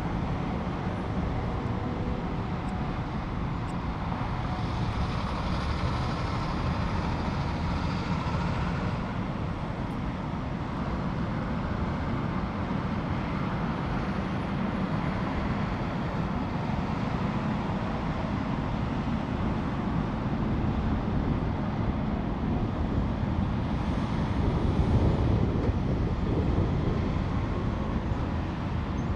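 Steady freeway traffic noise, vehicles rumbling past, with a louder swell near the end as a heavier vehicle goes by.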